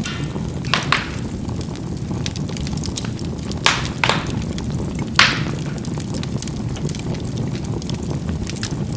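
Charcoal burning in a fireplace: a steady low rumble of the fire with sharp crackles and pops as the coals burst, about five of them, the loudest a little past the middle.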